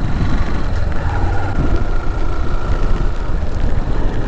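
Motorcycle on the move, its engine drone mixed with a steady low wind rumble on the microphone, with a faint thin whine in the middle.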